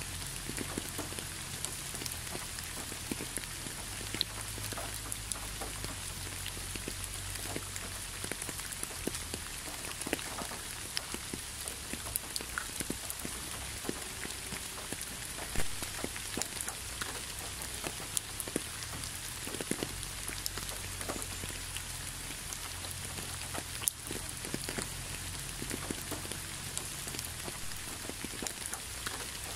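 Gentle rain falling onto a leafy road: a steady hiss with many separate drops landing close by, over a low rumble underneath.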